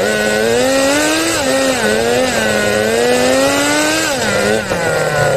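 Small nitro engine of an RC drift car, recorded from a phone riding on the car, revving up and down with the throttle in repeated rises and falls, then dropping toward idle about four seconds in.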